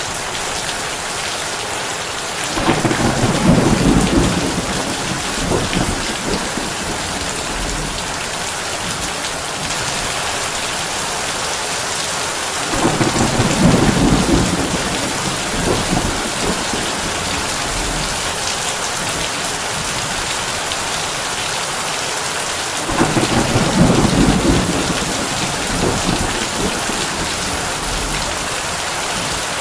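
Heavy rain on a tin roof, a steady hiss, with three low rolls of thunder, each a few seconds long, coming about ten seconds apart, the first a couple of seconds in.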